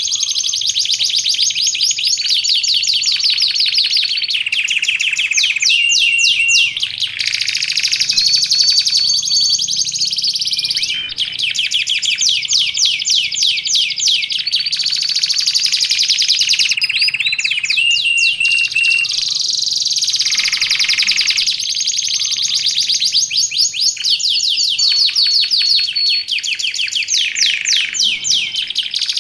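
Domestic canary singing a long, unbroken song of fast rolling trills, with short steady whistled notes between them.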